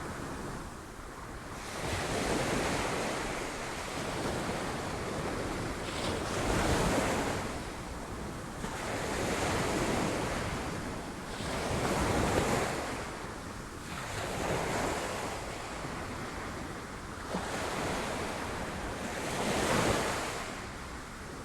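Sea waves breaking on rocks, a continuous wash of surf that swells into a crash about every few seconds, six or so surges in all, then falls back.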